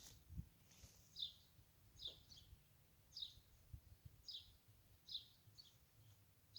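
Faint bird chirps: a short, high call repeated about once a second.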